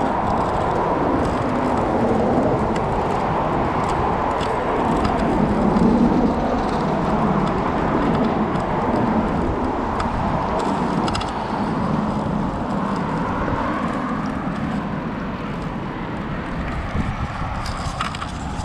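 Steady street noise heard from a moving bicycle: wind rushing over the action camera's microphone, mixed with passing car traffic.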